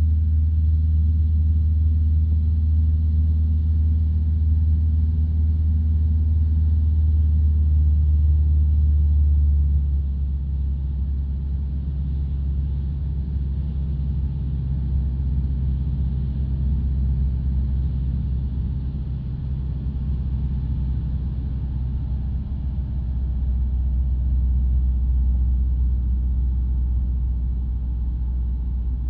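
Light aircraft's piston engine droning steadily in flight, heard from inside the cockpit. The drone drops and quietens about ten seconds in, then swells a little again later on.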